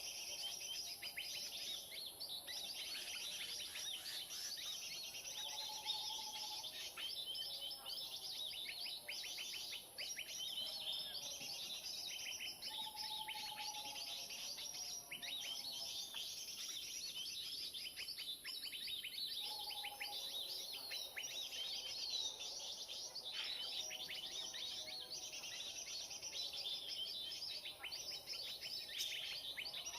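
Dense chattering of many small birds, rapid chirps and calls tumbling over one another, with a lower warbling call coming and going beneath. This is the 'keributan' (commotion) sound, a recording of agitated birds played from an MP3 player as a lure for trapping birds.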